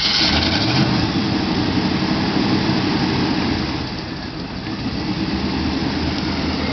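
A big American V8 idling with a low burble, steady throughout.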